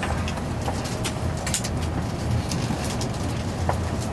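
Nozomi Shinkansen train running at low speed, heard from inside the passenger car: a steady low rumble with scattered light clicks and knocks.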